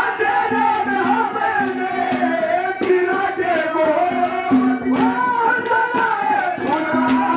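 Haryanvi ragni folk music: a wavering melody over a steady low drone, with regular tabla-style drum strikes keeping the beat.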